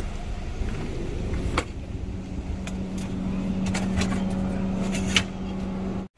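A vehicle engine running steadily with a low hum, while a few sharp clicks and knocks come from camping gear being lifted out of the car's boot.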